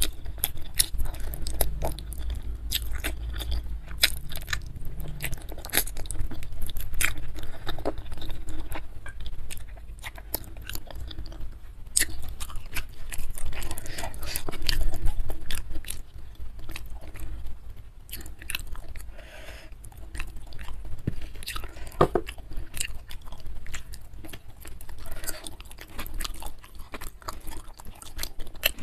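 Close-miked chewing and biting: a person eating goat-trotter curry with rice by hand, with many short wet clicks and smacks of the mouth.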